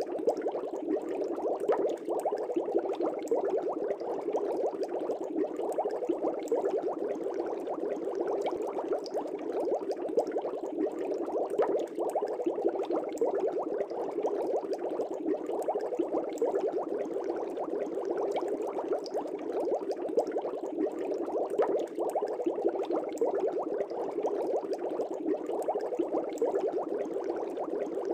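Air bubbles streaming up through fish tank water: a steady, dense bubbling made of many small pops and gurgles, with no pauses.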